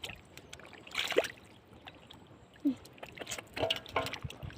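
Shallow floodwater splashing in short bursts, about a second in and again several times between three and four seconds, over a faint steady trickle.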